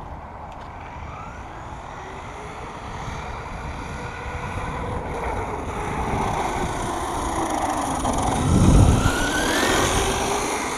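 1/5-scale electric RC monster truck driving, its motor whining up and down in pitch as it speeds up, over a steady rushing drive noise that grows louder. A loud low rumble comes briefly, about nine seconds in.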